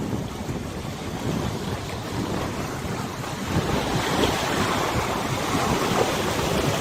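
River waves splashing and lapping, with wind buffeting the microphone. The water grows louder about halfway through.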